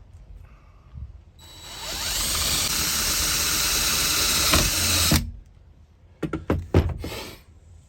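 Power drill running steadily for about four seconds. It spins up a second and a half in and stops abruptly, followed by a few sharp knocks.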